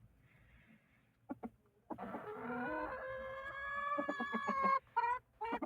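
Aseel rooster crowing: one long drawn-out crow lasting about three seconds, followed by a few short clucks near the end.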